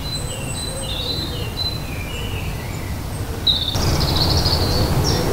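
Songbirds chirping and singing in short, repeated phrases over a steady low background rumble; the rumble steps up in loudness about three and a half seconds in.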